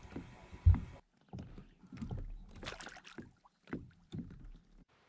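Small irregular splashes and knocks of water and gear around a fishing kayak, with a dull thump about a second in.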